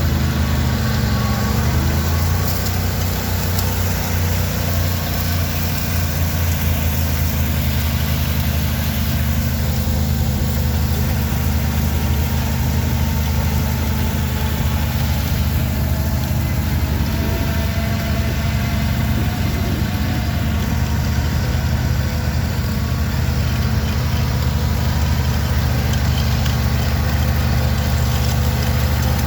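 Vehicle engine running steadily, a strong low drone with no change in pitch.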